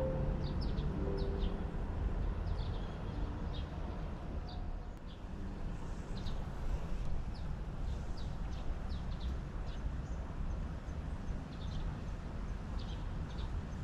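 Small birds chirping repeatedly in short, quick high notes over a steady low rumble of outdoor background noise.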